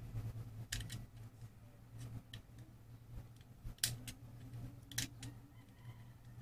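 Faint, scattered small clicks and taps of metal parts being handled: the induction cooker's thermal fuse leads and its sheet-metal mounting clip worked between the fingers and a hand tool. The clicks come irregularly, about seven in all, the sharpest around the middle and a little later, over a low steady hum.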